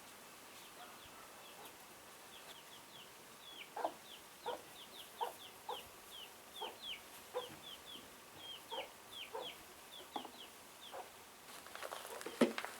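Chickens clucking, a short call repeated about one to two times a second, with many high, quick falling peeps alongside. Some scuffing noise comes near the end.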